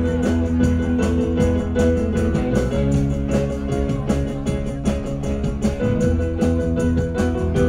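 Live rock band playing an instrumental passage, with guitar over bass and drums keeping a steady beat.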